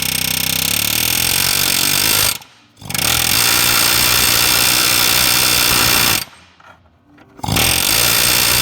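Pneumatic air hammer with a blunt bit hammering rapidly on the end of a broken exhaust manifold stud, mushrooming it over a nut so the stud can be backed out. It runs in three loud bursts with short pauses between, the last starting near the end.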